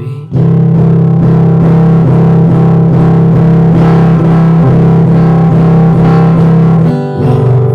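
Loud guitar music: a guitar strummed in fast, even strokes over sustained chords, shifting to a new chord about seven seconds in.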